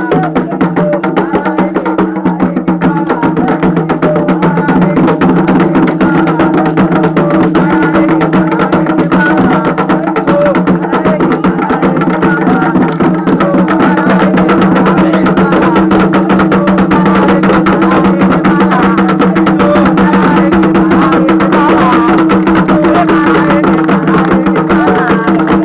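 Candomblé ceremonial music: fast, unbroken hand drumming over a steady droning tone, with wavering voice-like lines above.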